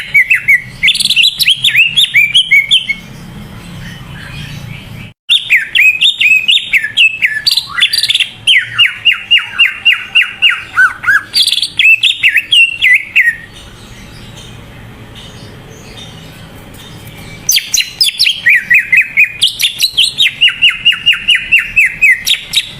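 Cucak ijo (leafbird) singing loudly: fast runs of quick, sweeping chirped notes, in three long bursts separated by pauses of a few seconds.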